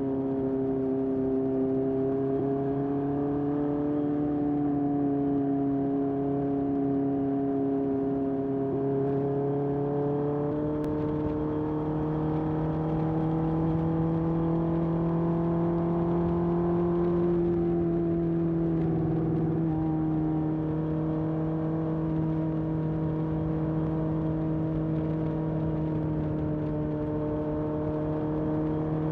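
A 1981 Honda CB750F's air-cooled inline-four, breathing through a period Yoshimura muffler, running under way at a steady cruise. The engine note climbs slightly about a third of the way in and eases back a little later.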